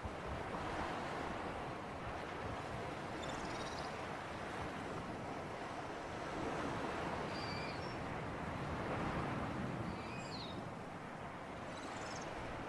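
Sea surf and wind: a steady wash of waves that swells and eases gently. A few brief high chirps, likely from birds, come through it.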